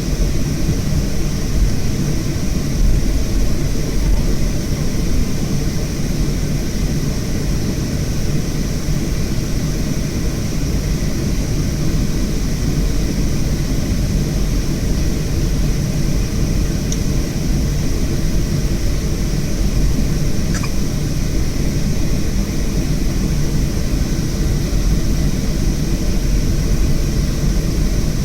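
Boeing 737-500's CFM56 jet engines running steadily: a deep rumble under an even hiss, holding at one level without spooling up or down.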